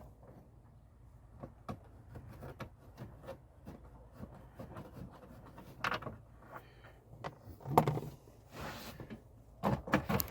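Hand tools and loose parts being handled: scattered light clicks and taps, with a few louder knocks in the last few seconds.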